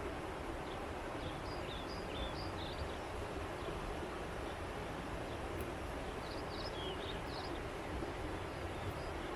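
Steady rush of flowing river water, with short high bird chirps in two brief clusters, one near the start and one past the middle.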